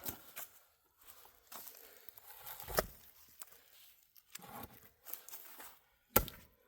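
Fiskars X27 splitting axe striking a log twice, about three seconds in and again near the end, the second blow louder, with scuffing footsteps and rustling between the blows.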